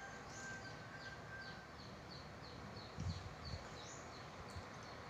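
Faint, high bird chirps: a short falling note repeated about three times a second. A couple of soft low thumps come about three seconds in.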